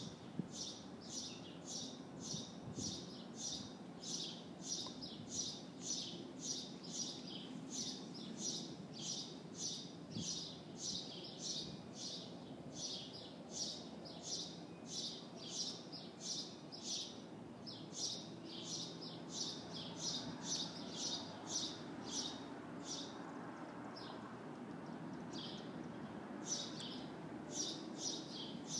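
A small bird chirping over and over, about two short high chirps a second, over a steady low distant rumble that swells a little in the second half.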